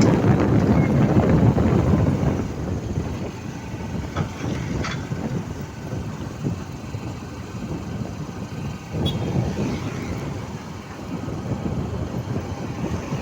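Vehicle rumble mixed with wind buffeting the microphone, loudest at the start, easing off, then building again near the end.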